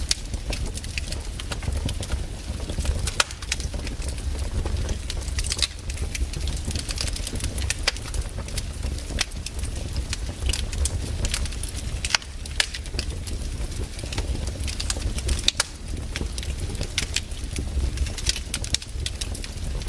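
Wood campfire crackling, with frequent sharp snaps and pops at irregular intervals over a steady low rumble.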